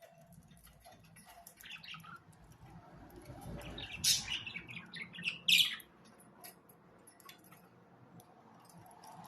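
Budgerigars chirping and warbling in many short, high calls, with a burst of louder chirps about four to six seconds in.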